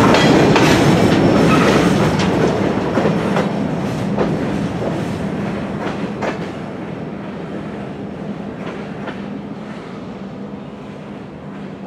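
Freight train of covered hopper cars rolling to a stop: a few scattered wheel clicks that come less and less often, over a steady low hum. The sound grows steadily fainter throughout.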